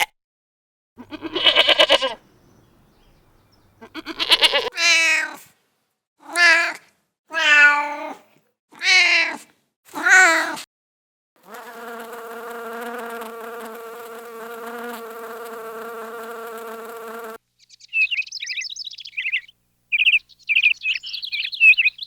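Cat meowing: six short, wavering calls over the first ten seconds or so. Then comes a steady pitched drone lasting about six seconds, and from about eighteen seconds in, rapid high chirping.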